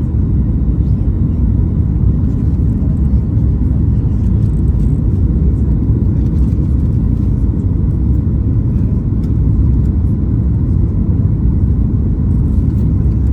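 Steady low rumble of jet cabin noise inside a Boeing 737 MAX 8 airliner, even in level throughout.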